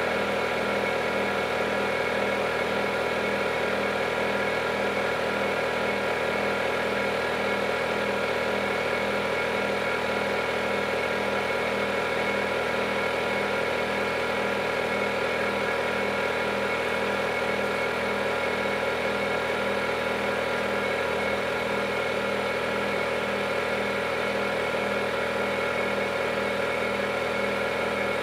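Samsung 9 kg washing machine running its cotton cycle: a steady motor hum with several held tones and a faint pulse of about two to three a second.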